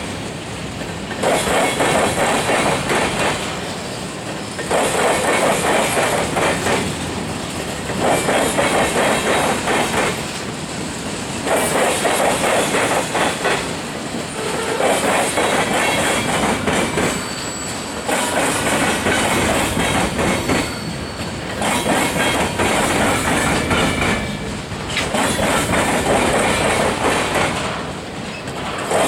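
Freight train rolling past slowly, its wheels clattering over the rail joints in a regular rhythm that swells about every three and a half seconds as each car goes by, with faint wheel squeal.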